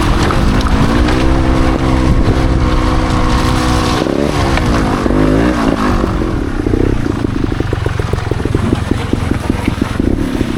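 Trials motorcycle engine running: it holds steady revs, dips and picks up again about four seconds in, then chugs at low revs with a fast, even pulsing.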